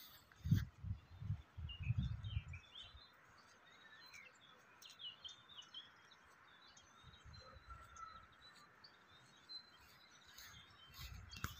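Small birds chirping and singing, many short calls throughout. Low rumbling bumps, wind or handling on the microphone, come in the first few seconds and again near the end.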